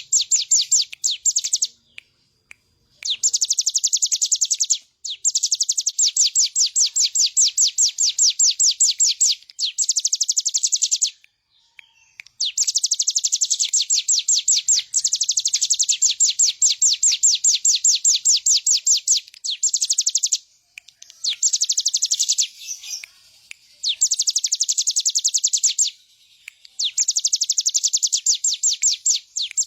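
Ciblek gunung, a prinia, singing in full song: long, rapid trills of evenly repeated high notes. The trills come in runs of one to five seconds with short pauses between them.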